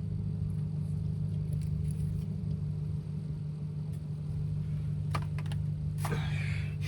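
A car engine running steadily at idle, a low even drone. A few light clicks come about five seconds in, and a brief rustle near the end.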